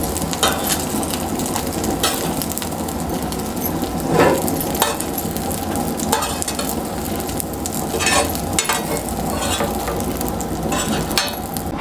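Semolina-coated brinjal slices sizzling in oil on a tawa, a steady frying hiss, with a few short clicks and scrapes from a spatula as the slices are lifted off onto a plate.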